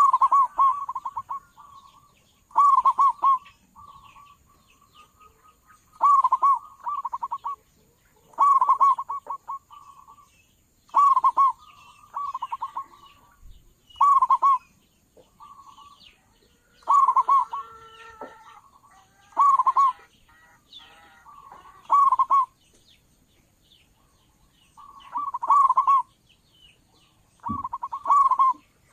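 Zebra dove (perkutut) cooing its rolling song over and over, a loud phrase every two to three seconds, with faint chirps of small birds in the gaps.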